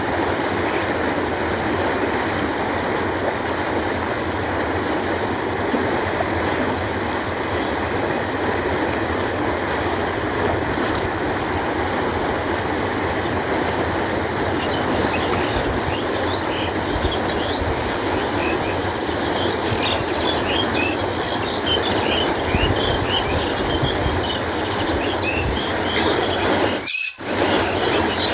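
Canal water flowing with a steady rush, with birds chirping over it in the second half. The sound cuts out for a moment near the end.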